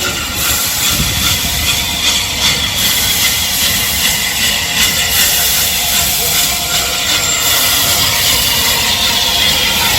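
Steam locomotive and train: a loud, steady rush of noise with hissing steam.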